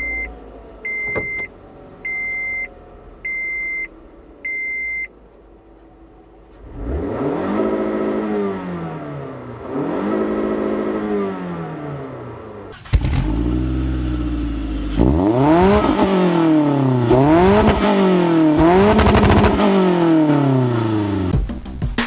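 Five short electronic beeps about a second apart, then a four-cylinder sports coupe accelerating hard from a standing start in a drag race. Its pitch climbs and drops at each upshift, and after a sudden cut a louder run goes through several quick rising and falling shifts.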